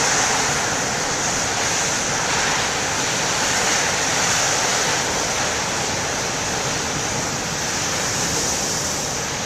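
Heavy storm surf washing against the shore, a steady rush of water with no single distinct crash.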